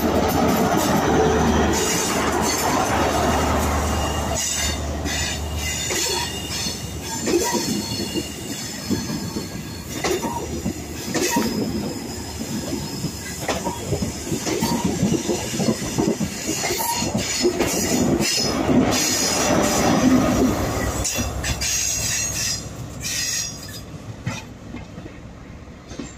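GWR InterCity 125 high-speed train departing, rolling close past: a steady low diesel engine hum at first, then wheels clicking over the rail joints with high squeals from the wheels on the curve. The sound fades near the end as the train draws away.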